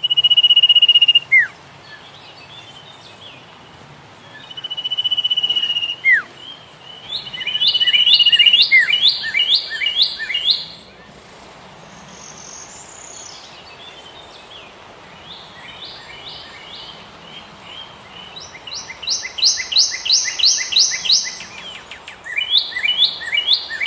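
Songbird singing in phrases. Long level whistles and short falling notes come first, then runs of fast repeated rising notes, about five a second, a little after 7 s and again from about 19 s.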